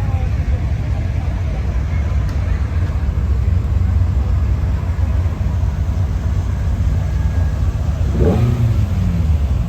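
Steady low rumble of a car on the move, engine and road noise. About eight seconds in, a short pitched sound drops quickly in pitch.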